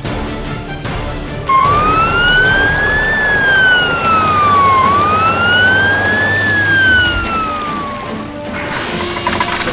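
Emergency vehicle siren wailing, its pitch rising and falling slowly through two full cycles, over background music.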